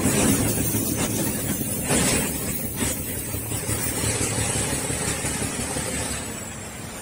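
D12E diesel-electric locomotive and its train running past, engine rumble and running noise slowly fading as it moves away, with a few knocks about a second apart early on.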